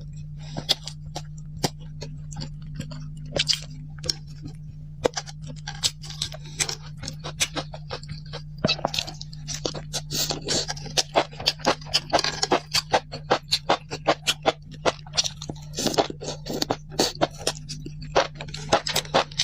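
Close-miked eating: rapid, irregular crunching and chewing with sharp clicks, growing denser about halfway through, over a steady low hum.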